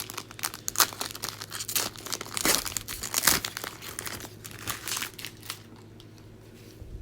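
A trading card pack's wrapper being torn open and crinkled by hand: a run of crackling and tearing that dies down about five and a half seconds in.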